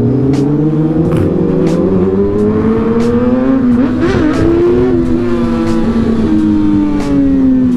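Several vehicle engines running and revving together, their pitch rising and falling and overlapping, with scattered short clicks.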